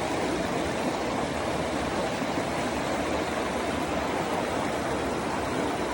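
Steady rush of flowing water, like a stream running high.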